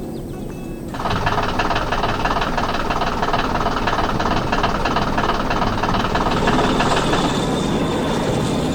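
Machine sound effect: a fast, even rattle that starts suddenly about a second in, over a low engine-like rumble.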